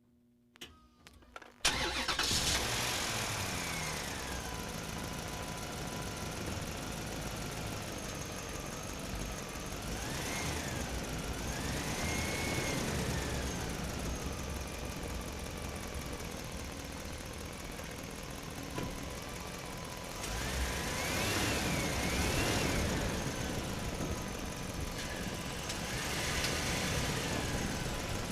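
The mini RC tractor's motor starts after a few clicks and then runs steadily. Its whine rises and falls in pitch several times as it speeds up and slows down.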